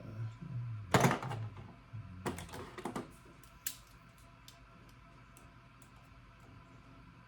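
Metal hand tools clattering: a loud rattle about a second in, another from about two to three seconds, then a single sharp click.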